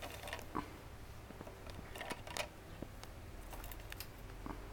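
Faint, scattered clicks and taps of a budgie pecking and knocking at a cardboard toilet paper roll with a plastic rod inside it.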